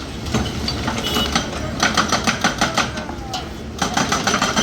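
Rapid mechanical hammering on hard material, about six or seven strikes a second, in two runs, typical of a demolition breaker at work.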